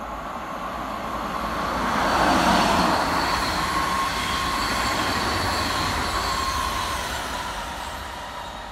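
SJ X2000 high-speed electric train passing through the station at speed. A rushing rumble builds to its loudest about two and a half seconds in, carrying a steady high-pitched whine, then fades slowly as the train runs away.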